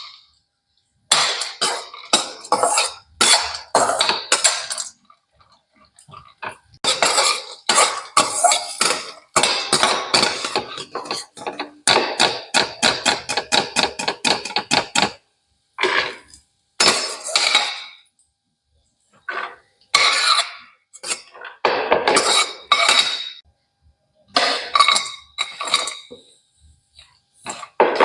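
A metal spoon or spatula scraping and clinking against a metal pan, in runs of rapid strokes broken by short pauses.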